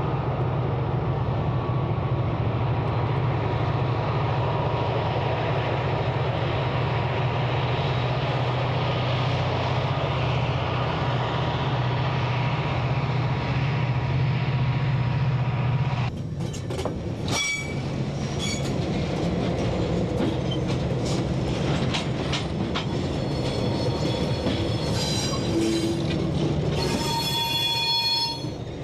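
EMD diesel locomotives hauling a freight train, their engines droning steadily. About sixteen seconds in, this gives way to the clicking and clanking of freight car wheels passing close by over the rail joints, with a brief high squeal near the end.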